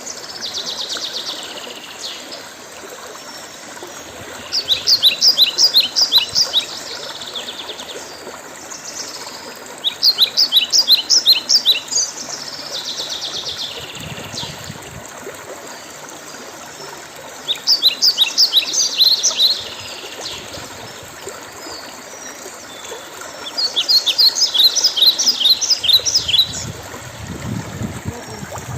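A songbird singing the same phrase over and over: a quick run of short, high, falling notes lasting about two seconds. The phrase comes four times, roughly six seconds apart, over a steady background hiss.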